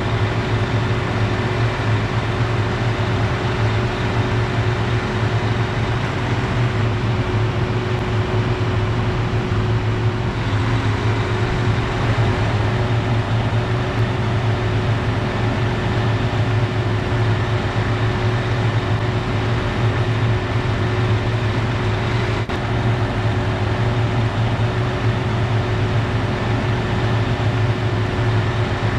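Shingle delivery boom truck's engine running at a steady drone, powering its hydraulic boom as it lifts a load of shingles onto the roof.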